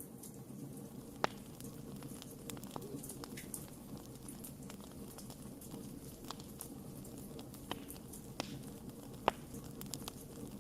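Wood campfire crackling: irregular small snaps and pops over a low, steady rush, with two sharper pops, about a second in and near the end.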